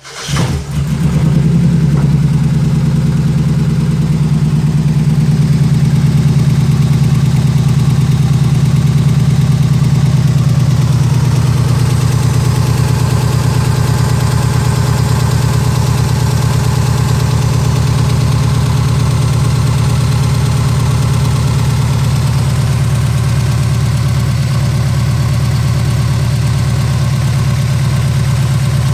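1993 Mazda Miata's four-cylinder engine idling steadily with a strong low hum, the engine shaking at idle.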